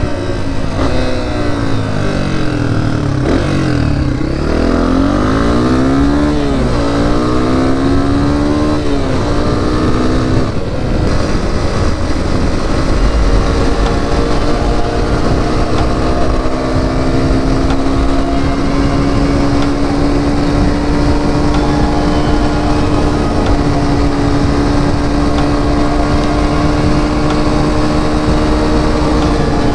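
Honda CRF250F dirt bike's single-cylinder four-stroke engine under way, revving up and down repeatedly through the gears for about the first ten seconds, then holding a steady pitch that slowly climbs as the bike cruises.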